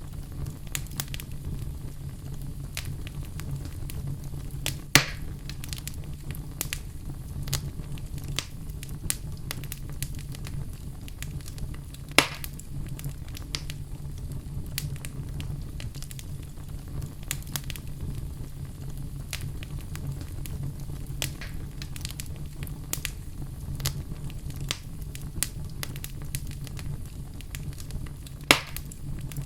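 Wood fire burning in a fireplace: steady low rumble of the flames with constant light crackling, and three sharp, louder pops about five, twelve and twenty-eight seconds in.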